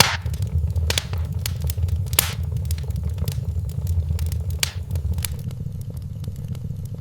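Wood fire in a fireplace crackling, with frequent sharp pops over a steady low rumble of the flames; the pops thin out toward the end.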